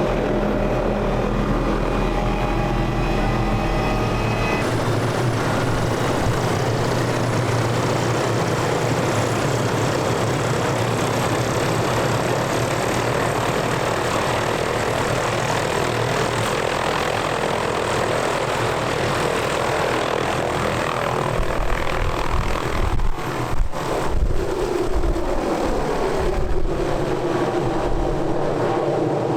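Engine running steadily, its note shifting about four seconds in, with wind buffeting on the microphone over the last several seconds.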